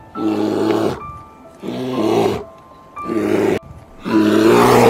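Brown bear calling: four loud, deep, drawn-out bawls about a second and a half apart, each lasting around half a second to a second.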